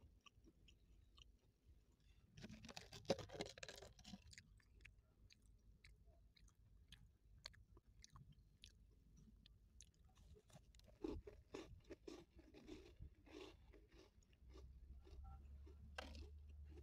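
Faint close-up crunching and chewing of a crumbly cookie: a crunchy bite about three seconds in, small mouth clicks, and another spell of crunchy chewing near the end.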